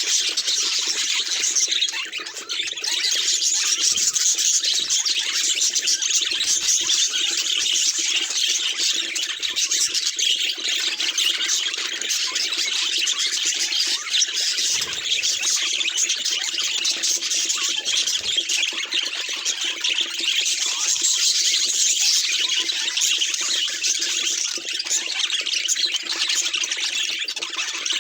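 Budgerigars chattering and warbling without a break, many calls overlapping in a dense high-pitched twitter.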